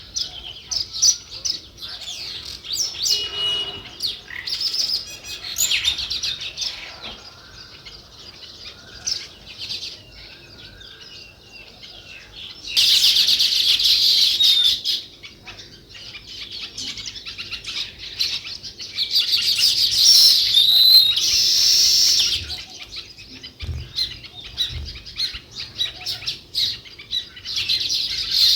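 House sparrows chirping over and over. The chirping grows louder and denser for a couple of seconds a little before halfway, and again for a few seconds past the middle.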